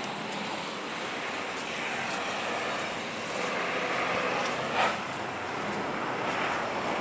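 Steady hiss of water, from rain or floodwater, with one brief short sound just under five seconds in.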